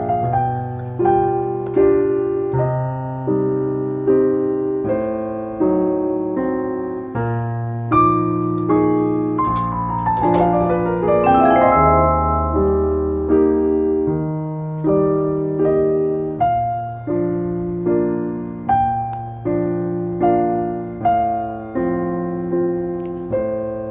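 Background piano music, a slow melody of struck notes that each die away, with a quick falling run of notes about halfway through.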